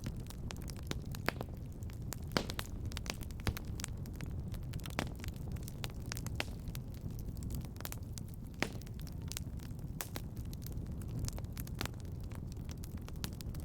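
Wood fire crackling in a fireplace: a steady low rumble of flames under irregular sharp pops and snaps, a few of them louder than the rest.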